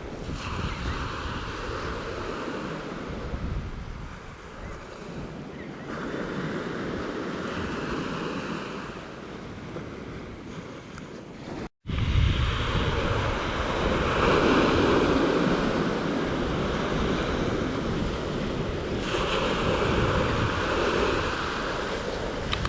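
Ocean surf breaking on a beach in repeated surges that swell and ebb every few seconds, with wind buffeting the microphone. About halfway through there is a momentary cut in the sound, after which the surf is louder.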